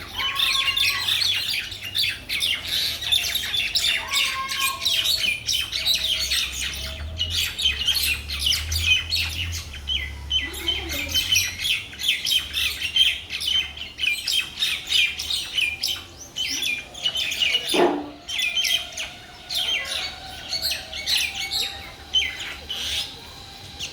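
Several mynas chattering and chirping rapidly and continuously, with harsh squawks among the calls.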